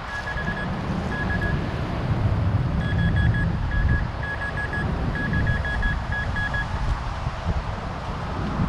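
Minelab Vanquish 440 metal detector sounding short, repeated beeps of one high tone, in quick clusters, as it sweeps over a buried metal target. A steady low rumble of wind on the microphone runs underneath.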